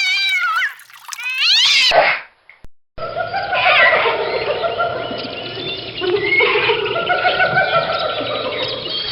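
A cat meowing twice in long, wavering calls. After a short gap, a busier stretch of overlapping calls and noise begins.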